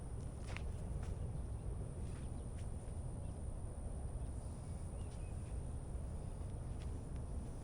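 Outdoor background: a steady low rumble with a few faint clicks and short chirps scattered through it.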